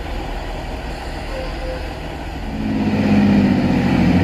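Diesel multiple unit engines running at the platform with a low rumble, then throttling up about two and a half seconds in to a louder, steady drone as the train starts to pull away.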